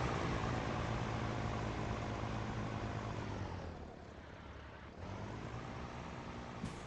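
Diesel truck engine running steadily. It eases off and grows quieter about three and a half seconds in, then picks up slightly about five seconds in.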